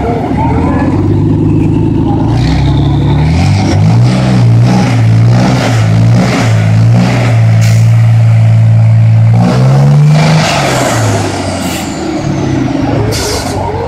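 Heavy truck sounding loudly: a low steady tone that jumps between a few set pitches, held longest in the middle and then falling back.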